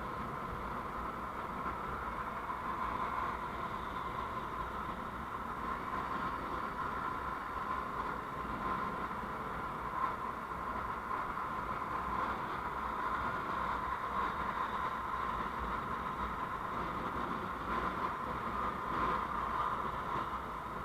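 Steady road noise of a vehicle on the move, recorded by a dashcam, with a low rumble and an even hiss that hold level throughout.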